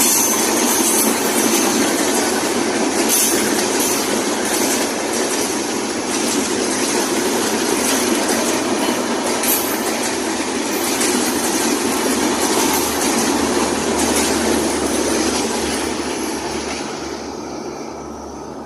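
Padma Express passenger train running on the rails, its wheels making a steady rumble over the track with occasional knocks. The noise dies away over the last couple of seconds.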